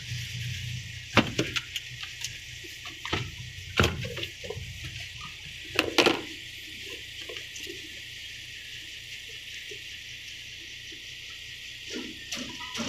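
Isuzu 6WF1 diesel truck engine running with a steady hiss, held at a high idle because its idle adjuster no longer works. Sharp clicks and knocks come about one, four and six seconds in.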